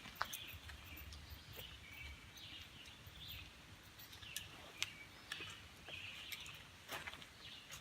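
Faint birdsong, short high phrases repeating every second or so, with scattered clicks and scuffs of footsteps on the trail.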